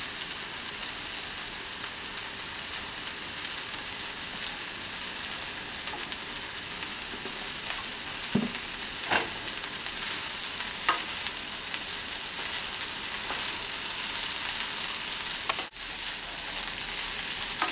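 Fried rice with egg and mixed vegetables sizzling steadily in a frying pan, with a few light knocks in the middle. Near the end a wooden spoon stirs through the rice.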